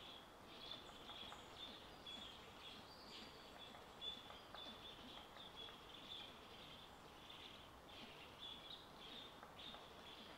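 Faint bird chirping in woodland: a steady string of short, high chirps, several a second, over a quiet outdoor hush.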